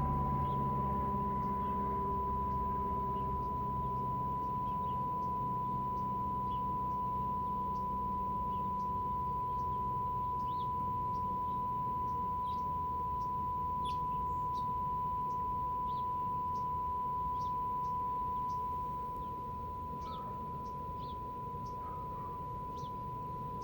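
Steady single-pitch test tone from the Nordmende Caruso tube radio's speaker, with background hiss: the signal generator's FM test modulation coming through the receiver during alignment. The tone gets slightly quieter near the end.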